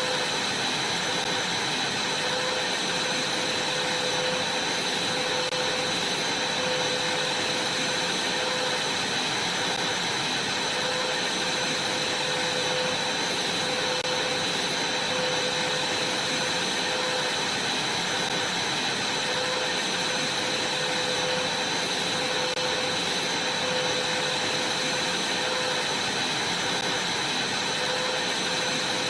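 Vacuum cleaner running steadily without a break: an even rush of air with a constant high tone over a lower hum.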